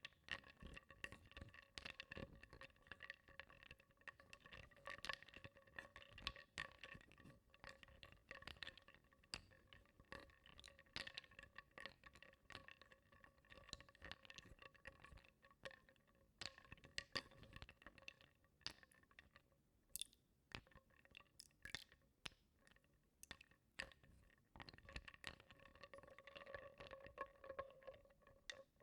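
Wooden blocks being stirred in a bowl of water, clicking and knocking against each other and the bowl in quick, irregular taps, over a faint steady ringing tone.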